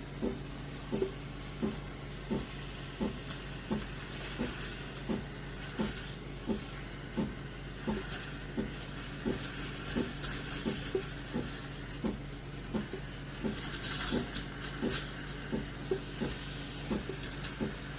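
CASABREWS espresso machine running, its pump hum pulsing in a steady rhythm of about three beats every two seconds, with hissing that swells twice in the second half.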